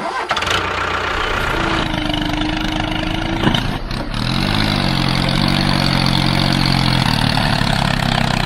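Tractor engine running steadily, with a brief rise and fall in pitch about halfway through.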